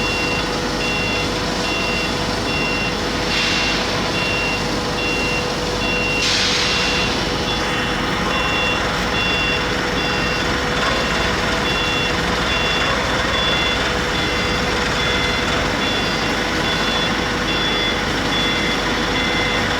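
Steady industrial machinery noise from an aluminium rod continuous casting and rolling line, with a steady hum. Over it an electronic warning beeper sounds over and over, one to two beeps a second, and two short bursts of hiss come about three and six seconds in.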